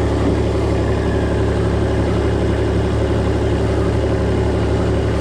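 A vehicle engine running steadily at a constant speed, a deep, even hum with no revving.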